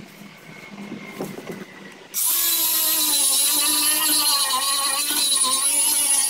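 Handheld power sander sanding a boat hull. Its motor whine starts suddenly about two seconds in and runs steadily, wavering slightly in pitch as it is worked over the surface.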